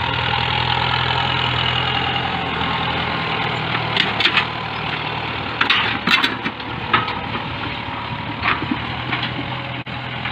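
Farm tractor engine running steadily close by while it plows the field, with several short sharp knocks between about four and nine seconds in.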